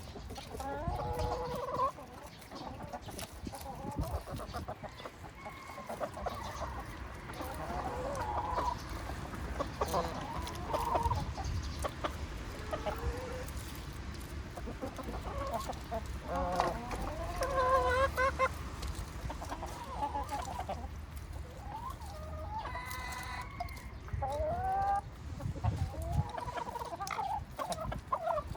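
A flock of chickens clucking and calling, with many short overlapping calls throughout.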